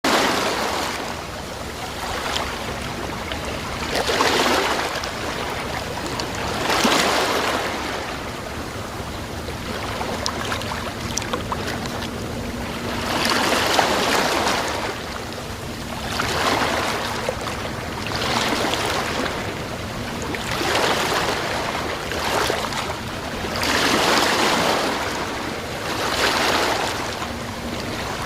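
Sea water rushing and washing in repeated swells a few seconds apart, like waves surging in and draining back.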